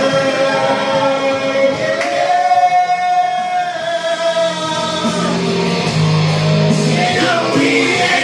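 Karaoke singing over a rock backing track, the singing drawn out in long held notes.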